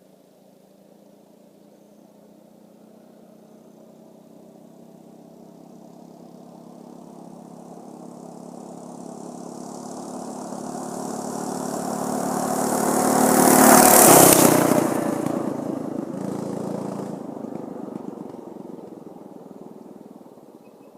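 Baja Warrior 200 mini bike's stock 6.5-horsepower, 200cc single-cylinder four-stroke engine running at speed, approaching from a distance, passing close by about 14 seconds in with a brief loud rush, then fading away.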